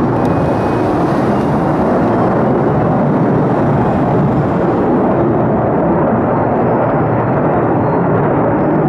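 F-35A fighter jet's engine roar during takeoff: loud and steady, with the higher hiss in it fading after about five seconds.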